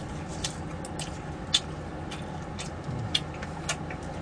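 A person chewing food, with short wet mouth clicks about twice a second over a steady background hiss.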